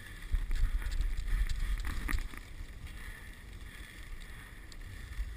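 Dog sled on the move over snow: a steady hiss from the sled and team running, with wind rumbling on the microphone for the first two seconds or so.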